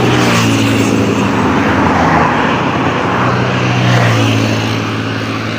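Fast highway traffic passing close by: a loud rush of tyre and wind noise with the drone of heavy engines, their pitch dropping as vehicles go by. It is loudest about four seconds in.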